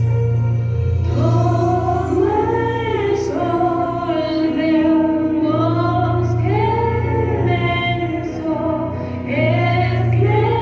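Female voices singing slow, sustained notes with a musical backing that holds a steady low bass note; the voices come in about a second in.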